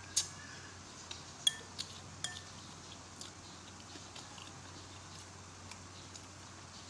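A spoon clinking against a bowl of rice porridge, four or five short ringing clinks in the first couple of seconds, the sharpest about one and a half seconds in, then only faint background hiss.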